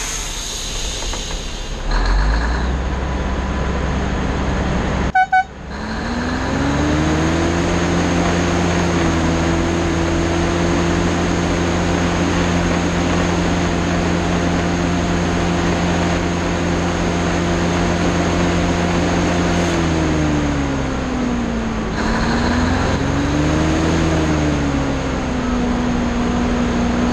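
Vehicle engine running while driving: the engine note climbs about six seconds in, holds steady for a long stretch, then drops, climbs briefly again and settles lower near the end. The sound cuts out briefly about five seconds in.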